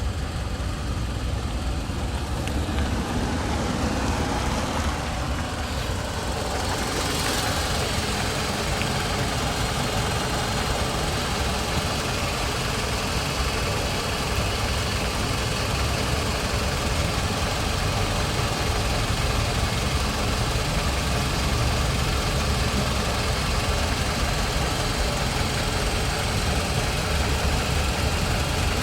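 2010 Citroën C-Crosser's 2.4-litre 16-valve naturally aspirated inline-four idling steadily, with a steady low rumble. A hissing layer above it grows louder about seven seconds in and holds.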